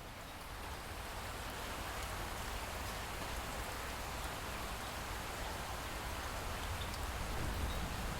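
Light rain falling steadily, growing slowly louder.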